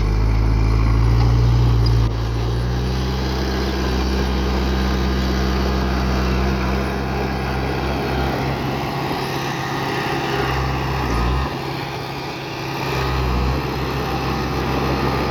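Heavy diesel engine of an earthmoving machine running under load. It drops in level about two seconds in, with a short dip in the engine note about three quarters of the way through.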